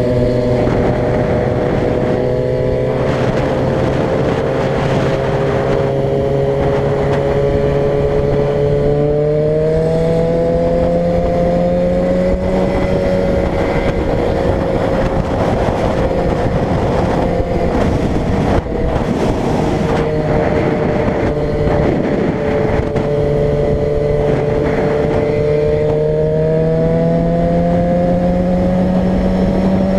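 Car engine and road noise while driving, steady, with the engine pitch slowly rising about a third of the way in, easing back, and rising again near the end as the car speeds up and slows.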